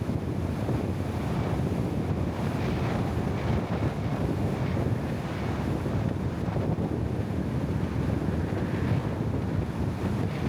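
Wind buffeting the microphone: a steady, dense low rush with no distinct events.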